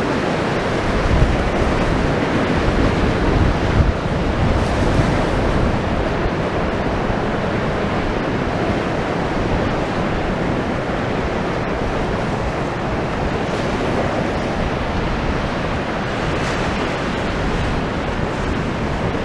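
Rough sea surf washing in steadily, with wind rumbling on the microphone, heaviest in the first few seconds.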